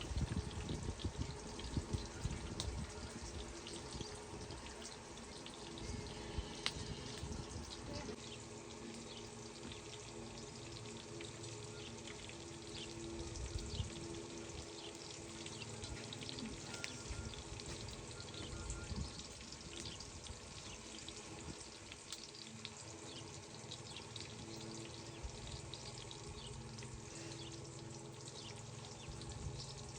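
Food frying in a pan with a steady fine crackle and sizzle, under soft background music.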